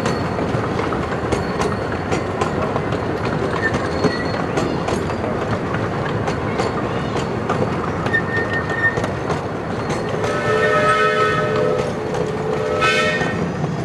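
Live steam 2-6-0 locomotive on a 15-inch gauge railroad running with its train, with a steady rumble and many sharp clicks from the wheels and track. About ten seconds in its steam whistle blows a long blast of a couple of seconds, then a short one near the end.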